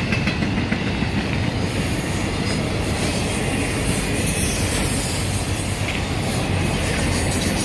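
Intermodal freight train cars rolling slowly past, the wheels rumbling and clattering steadily over the rails, with a faint high wheel squeal about halfway through.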